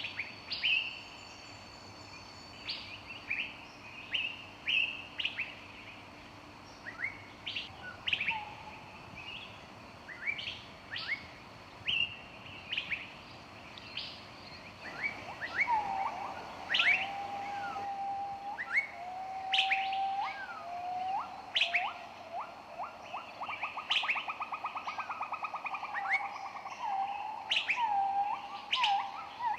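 Several songbirds chirping, with short repeated high chirps throughout. From about halfway, lower whistled notes join in, and a fast trill runs for a few seconds in the second half.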